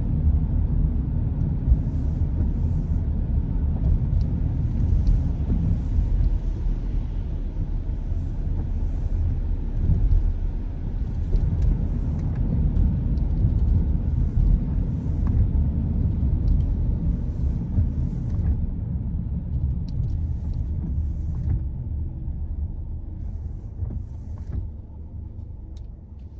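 Car driving, a steady low rumble of tyres and engine on the road, with faint scattered ticks above it. The rumble grows quieter over the last several seconds.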